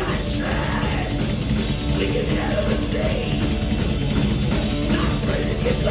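Live rock band playing loud, with distorted guitar, bass, drums and a singing voice.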